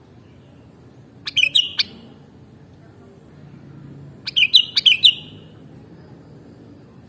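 Sooty-headed bulbul (kutilang) singing two short phrases of quick notes, about three seconds apart.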